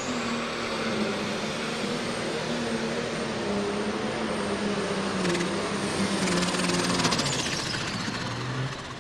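Pro stock pulling tractor's turbocharged diesel engine running flat out down the track: a loud roar with a high turbo whine on top. About seven seconds in the whine and roar drop away as the run ends.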